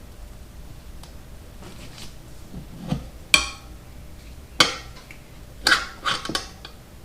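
Metal tire levers clanking against a motorcycle wheel rim while the bead of a tubed tire is worked on by hand: a handful of sharp metallic clanks in the second half, the last three close together.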